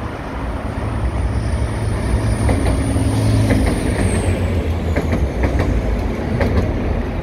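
TransPennine Express Class 185 diesel multiple unit passing close by, with a steady diesel engine drone. A high whine drops in pitch and fades about four seconds in, and the wheels click over rail joints several times.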